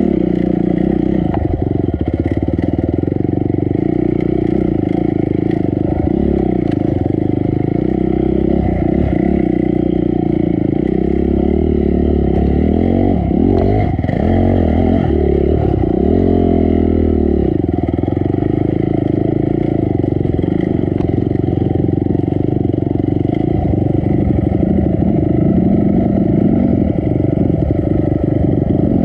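Honda CRF250 single-cylinder four-stroke dirt bike engine running under load off-road, the revs rising and falling sharply for a few seconds in a burst of throttle about halfway through.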